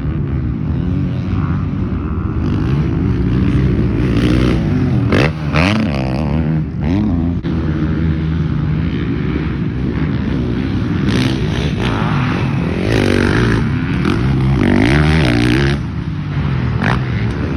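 Motocross dirt bike engines revving, the pitch rising and falling repeatedly as the throttle opens and closes.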